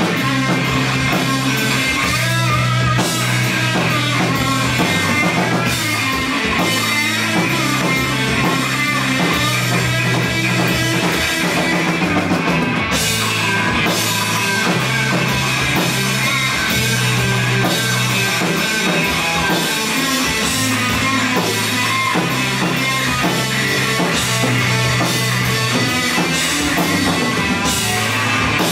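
Rock band playing live: electric guitar, bass and drum kit going full tilt.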